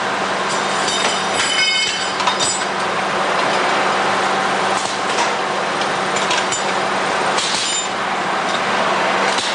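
Steady machinery noise with a low hum on a plier hardening line, with metal parts clinking now and then, some with a short ringing.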